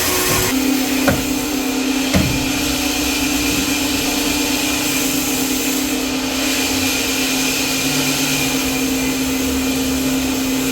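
Sawmill machinery running with a steady hum and hiss; the sound shifts about half a second in, then stays steady. Two sharp knocks come about one and two seconds in.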